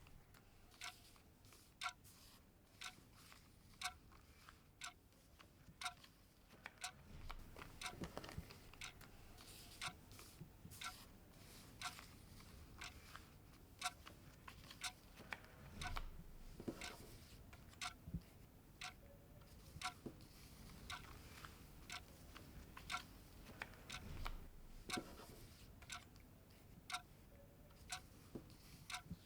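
Faint ticking of a clock, about one tick a second, with now and then a soft low rustle.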